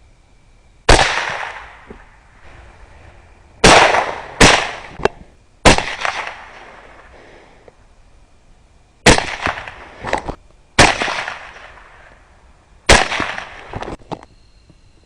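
Gunshots fired in an irregular string: about seven loud shots, some in quick pairs, with fainter cracks between them, each echoing away for a second or more.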